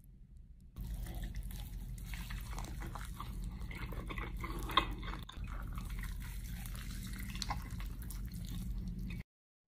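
Close-miked biting and chewing of a crispy chicken ramen burger with sauce: crackly crunching and wet mouth sounds over a low hum, with one sharper crunch about five seconds in. It cuts off suddenly near the end.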